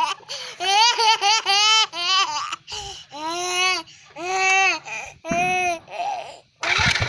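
High-pitched laughter in repeated bursts: quick choppy peals at first, then a few longer rising-and-falling whoops, ending in a breathy, noisy stretch.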